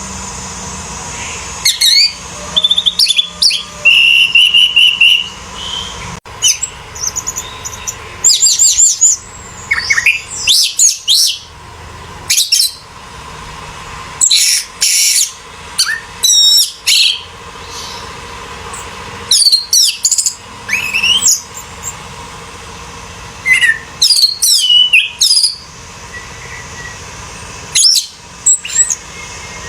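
Orange-headed thrush singing: loud bursts of rapid, varied whistles and chattering phrases, each a second or two long, repeated with short pauses between.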